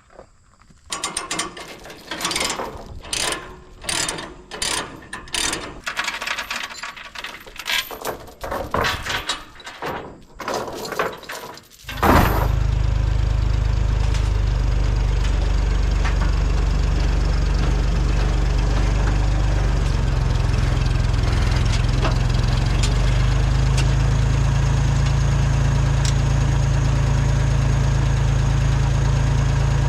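Irregular metal clanking and rattling for about twelve seconds, then a tractor engine starts suddenly and runs steadily with a strong low rumble.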